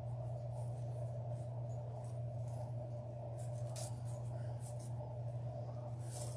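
Faint rustling and crinkling of ribbon and deco mesh being handled and arranged on a wreath, in scattered short bursts over a steady low hum.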